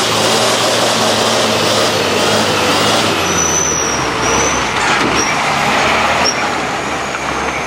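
Heavy truck's diesel engine running as it passes, over a steady dense rush of noise, with short high-pitched squeals a few seconds in and again near the end.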